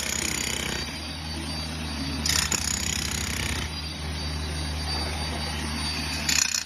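Kubota excavator's diesel engine running steadily, with two louder bursts of scraping noise, one about two seconds in and one near the end.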